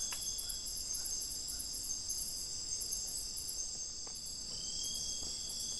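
A chorus of forest insects, cricket-like, trilling steadily in several high-pitched layers with a rapid pulsing in the highest one. A thin faint whine joins about four and a half seconds in.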